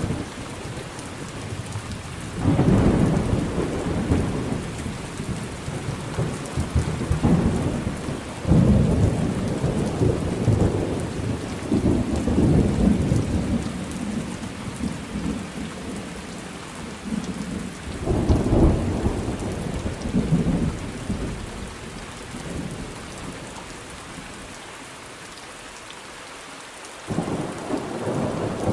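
Thunderstorm: steady rain hiss with repeated rolling rumbles of thunder, the strongest about two and a half, eight and a half and eighteen seconds in, easing off briefly before another rumble starts near the end.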